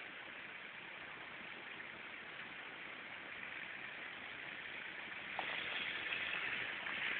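Faint, steady hiss and low running of a queue of off-road 4x4s idling and creeping forward, with no single engine standing out. It gets a little louder about five seconds in.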